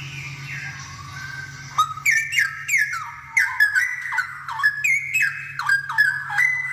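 Straw-headed bulbul (cucak rowo) singing. It starts with soft warbling, then from about two seconds in breaks into a fast, loud run of rich whistled phrases whose notes slide down in pitch. A steady low hum runs underneath.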